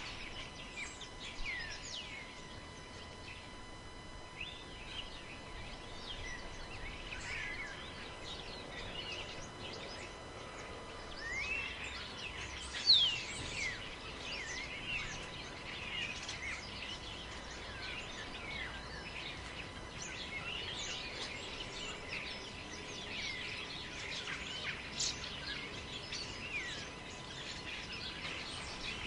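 Several wild birds calling over one another: short chirps and whistles, many sweeping downward in pitch, with one louder whistle about thirteen seconds in.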